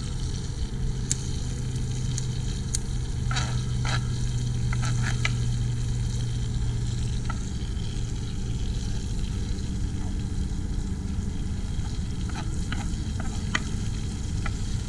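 Garlic and shallots sizzling as they fry in a hot pan, with scattered clicks of a utensil stirring against the pan, over a steady low hum.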